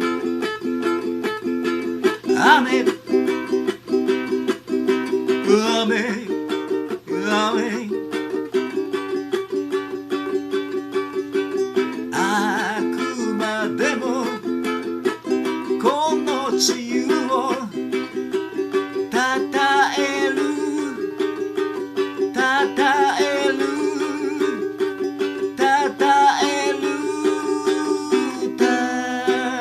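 A ukulele playing the song's accompaniment, with a voice singing over it in places.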